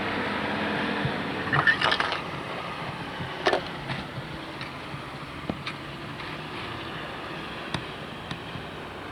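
A motor vehicle running and fading away, followed by a few scrapes and knocks, the loudest about two seconds and three and a half seconds in.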